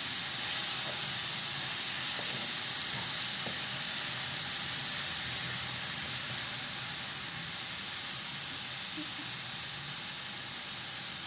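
Freshly washed, wet urad dal sizzling and hissing steadily in hot oil and fried tomato-spice masala in a non-stick pan, easing off slightly toward the end.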